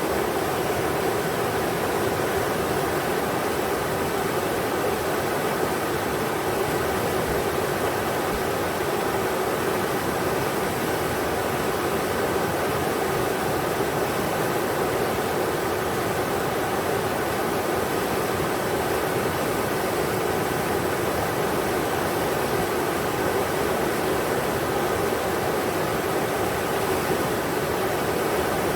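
River water rushing over rocks: a steady, even roar with no changes.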